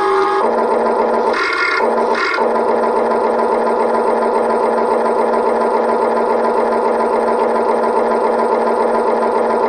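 Motors and gearing of a Huina 1580 radio-controlled excavator running steadily, giving a loud whine of several tones held at one pitch, with a brief burst of higher-pitched noise about one and a half seconds in.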